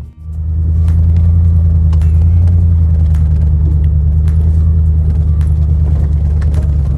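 Steady low rumble of a vehicle driving, heard from inside, with scattered small clicks and rattles over it.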